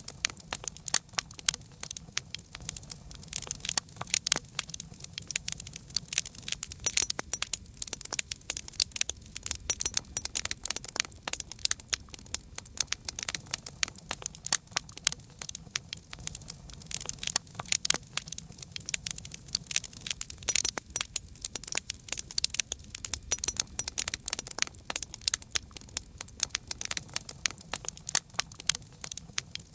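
Campfire burning with dense, irregular crackling and sharp pops from the burning wood, over a low steady rumble.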